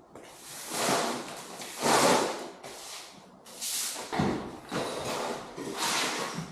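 A run of short scraping and rustling noises, roughly one every second or so, with a thump about four seconds in: junk being dragged and handled on a garage floor.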